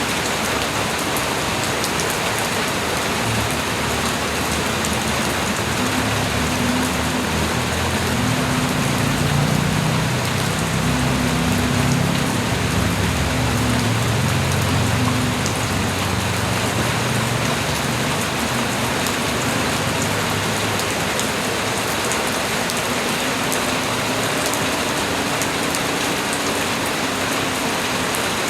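Steady light rain falling on surfaces, an even continuous patter. A low rumble swells through the middle and then fades.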